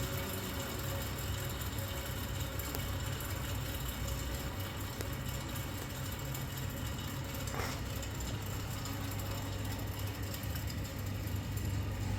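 Electric wall or exhaust fan running with a steady motor hum and the rush of its blades. A brief, higher-pitched sound cuts in once, about seven and a half seconds in.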